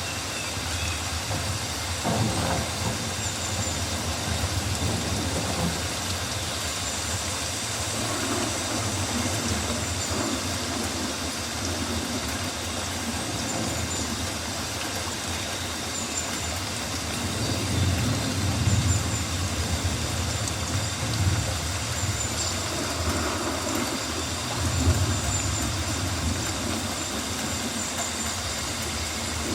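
Rainforest ambience: a steady hiss of rain over a low rumble, with faint high chirps recurring every few seconds.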